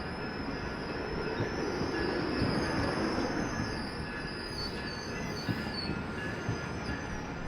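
Passenger train rolling by: a steady rumble of wheels on rail with a thin, wavering high-pitched wheel squeal above it.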